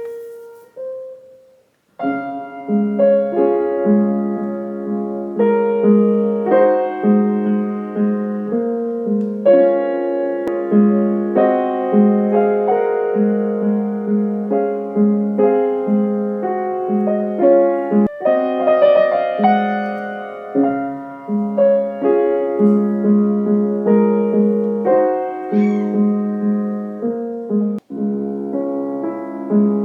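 Solo piano playing a steady, repeating low note under a changing melody. It breaks off briefly about two seconds in, then carries on.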